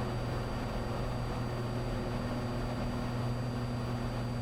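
Cessna 182's piston engine and propeller running steadily in flight, heard as an even low drone inside the cabin, with a thin high steady whine above it.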